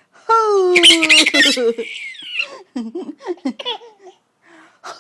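A small child's shrill squeal, falling in pitch, about a third of a second in, followed by shorter, softer squeaks and giggles.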